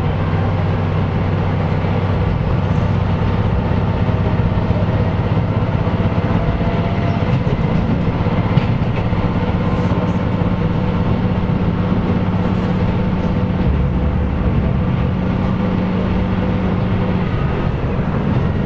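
KiHa 125 diesel railcar under way, a steady diesel engine drone over the rumble of the wheels on the rails. Near the end the upper part of the engine note drops away.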